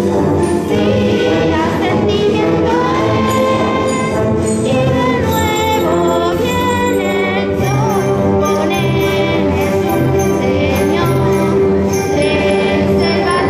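Choir singing with instrumental accompaniment, and jingle bells shaken in time, continuous and at a steady loudness.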